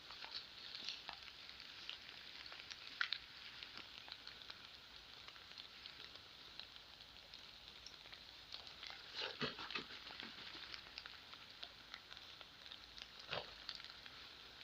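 Rain falling, a faint steady hiss with scattered crackles and pattering, a cluster of louder crackles about nine seconds in and another near the end.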